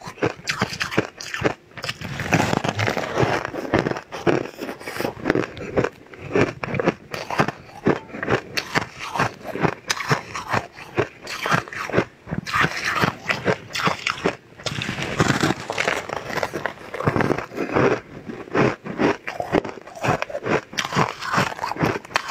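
A person biting and chewing a crunchy purple cake up close, a dense run of irregular crunches and crackles.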